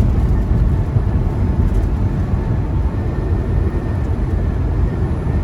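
Semi truck cab noise while driving on the highway: a steady low rumble of the diesel engine and tyres on the road.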